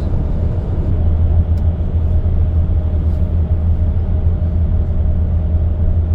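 A road vehicle driving: a steady low engine and road rumble with a faint steady hum above it.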